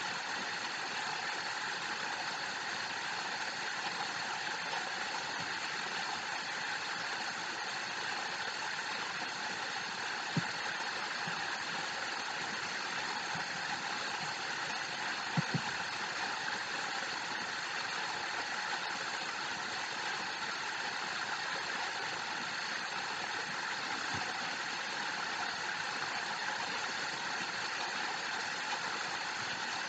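Steady rushing of a waterfall, an even unbroken noise, with a few faint clicks around the middle.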